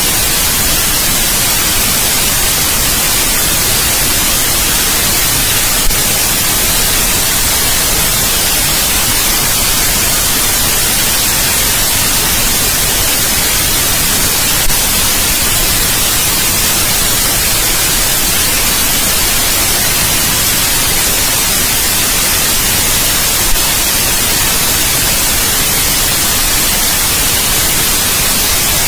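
Steady white noise, an even hiss that is brightest in the high frequencies, with three faint clicks at even gaps of about nine seconds.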